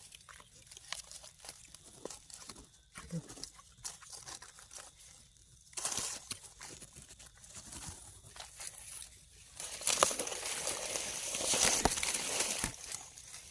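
Irregular rustling and crinkling with scattered small clicks and snaps, from handling and moving through the forest floor while picking termite mushrooms. It is louder about six seconds in and again from about ten seconds until near the end.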